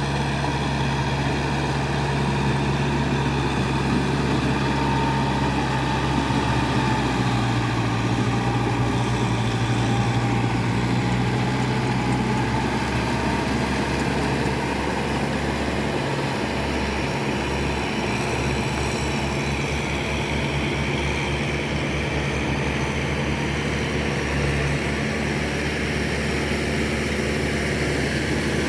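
Kubota farm tractor's diesel engine running steadily, with its pitch shifting slightly a few times.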